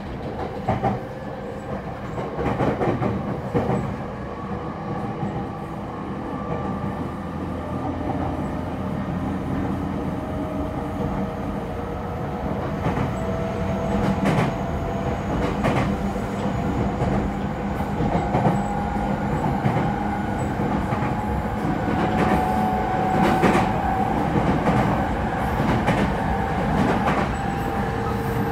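Interior running sound of a JR East E231 series 1000 commuter train with a Hitachi IGBT-VVVF inverter: a steady rumble with wheels clacking over rail joints. A motor whine climbs slowly in pitch as the train gathers speed.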